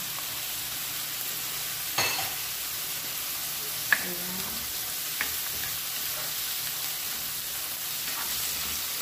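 Squid frying in hot oil in a wok, a steady sizzle while a spatula stirs it. The spatula knocks against the pan three times: a ringing knock about two seconds in, the sharpest and loudest one about four seconds in, and a lighter one a second later.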